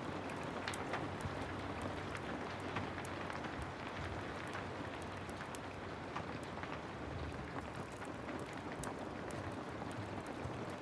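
Heavy rain falling steadily, with a crackling wood fire giving scattered sharp pops over the hiss.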